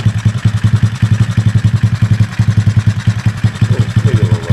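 Kayo pit bike's small single-cylinder four-stroke engine idling steadily on its freshly overhauled and adjusted carburetor, with an even, rapid pulse of roughly ten beats a second.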